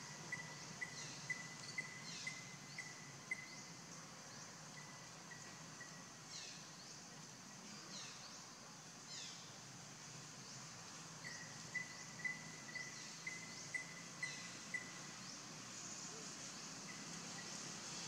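Wild birds calling over a steady high insect hiss. One bird repeats a short clear note about twice a second in two runs, at the start and again past the middle, while other high calls sweep quickly downward now and then.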